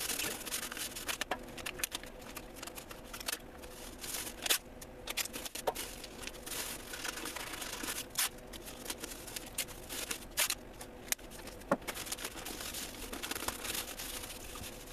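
Masking tape and paper being handled: crinkling, tearing and rustling, with scattered sharp clicks.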